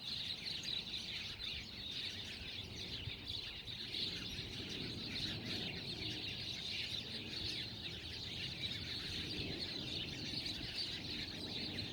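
Steady, dense chorus of chirping birds.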